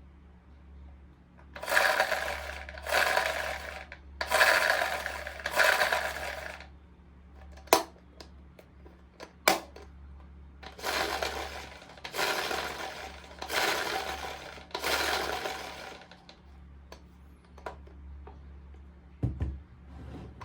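Small plastic toy pieces rattling as they are handled. There are eight rustling, rattling bursts of about a second each, in two sets of four, with two sharp clicks between the sets.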